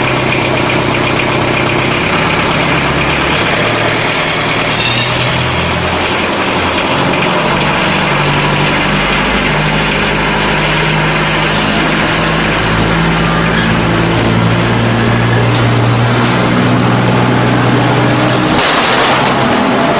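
Compact truck-mount duct-cleaning vacuum running hard: its Kubota turbo diesel drives the vacuum fan, with a loud rush of air drawn in through an 8-inch pipe on the intake. The low engine tone steps in pitch several times, and a brief louder rush of air comes near the end.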